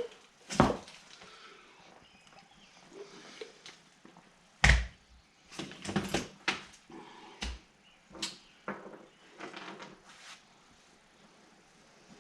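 Scattered metal clanks and knocks as a mower blade is handled and fitted back onto its deck spindle, the loudest about four and a half seconds in, with a quick run of knocks soon after.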